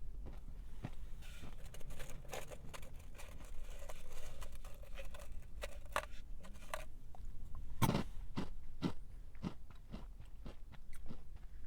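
Close-up chewing of a crunchy snack: a run of crisp, irregular crunches, with the loudest bite about eight seconds in.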